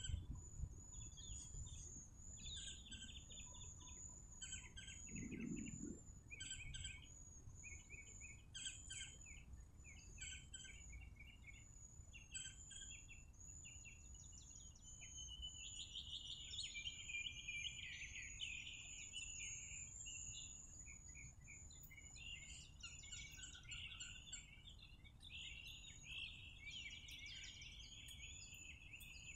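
Faint outdoor birdsong: small birds chirping repeatedly, with a longer trilling phrase about halfway through. A steady high-pitched whine and a low rumble run underneath.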